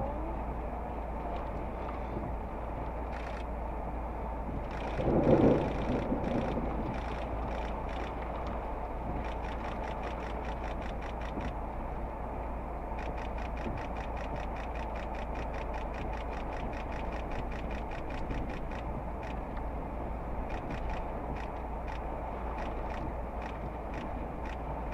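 Steady vehicle cabin noise with a constant low rumble. A louder swell comes about five seconds in, and rapid light ticks come in runs through much of it.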